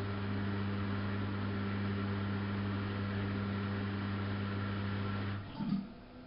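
Samsung WF71284 washing machine running with a steady low hum and a rushing noise. The hum cuts out about five seconds in, with a short surge, and the machine goes much quieter.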